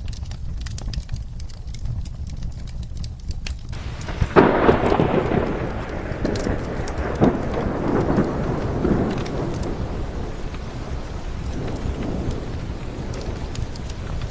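Rain falling with a wood fire crackling in sharp clicks. About four seconds in, a thunderclap breaks and rolls on in surges, fading over several seconds.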